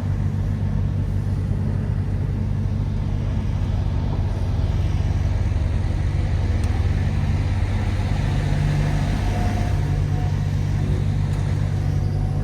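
MAN TGX 18.510 truck's 12.4-litre straight-six diesel running at low speed: a steady low drone.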